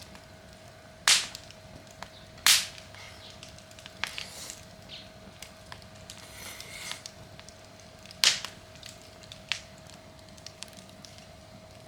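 Wood fire crackling, with three loud sharp pops and several smaller snaps over a soft hiss of burning. A faint steady tone runs underneath.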